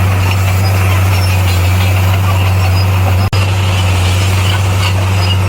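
Bulldozer's diesel engine running at a steady, constant low drone, with a momentary dropout in the sound a little past halfway through.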